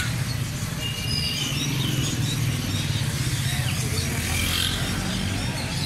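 A motor vehicle engine running steadily close by, with small birds chirping in short calls over it.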